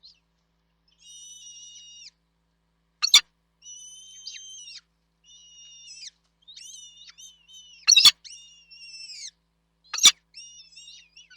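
Nestling birds calling over and over, each call a high, thin note about a second long with short gaps between: begging calls for food. Three loud, sharp clicks cut in among the calls and are the loudest sounds.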